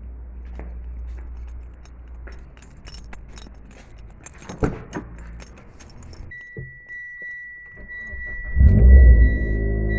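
Car keys jangling and clicking, then a high steady electronic tone from the car, and about eight and a half seconds in the Mitsubishi Lancer's engine is cranked and starts, settling into a steady idle.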